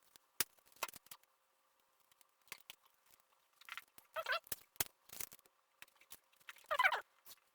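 Small hand-work noises from repairing a model airplane's skin: scattered light clicks and crinkles, with two short squeaky rubbing sounds about four and seven seconds in.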